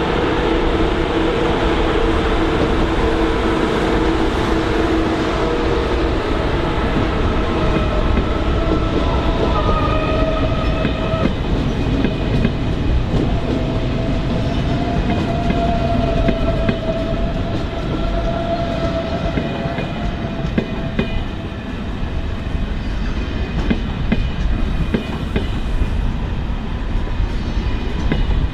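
ICE 1 high-speed train (DB class 401) passing close by, its wheels rumbling steadily on the rails under a steady whine that shifts higher after about seven seconds.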